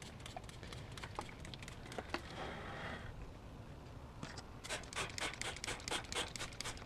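Hand spray bottle squirting cleaner onto an engine bay: a short hiss about two seconds in, then rapid repeated squirts, about three or four a second, from about two-thirds of the way through.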